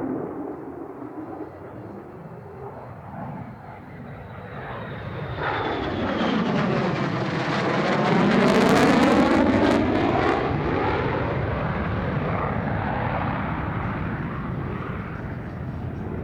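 F-35A Lightning II's single F135 turbofan making a pass. The jet noise builds from about five seconds in and is loudest around nine seconds, with a sweeping, phasing swoosh as the aircraft goes by. It then fades away slowly.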